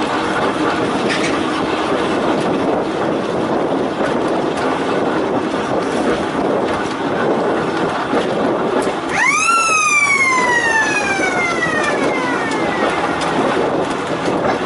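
Volks Electric Railway car running along the line with a steady rattling rumble. About nine seconds in, a high tone rises sharply and then slides slowly down for about four seconds before fading.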